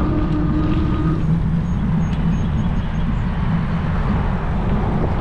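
Road traffic going by, with a motor vehicle's engine hum that drops in pitch about a second in, over a steady low rumble of wind on the microphone of a moving e-bike.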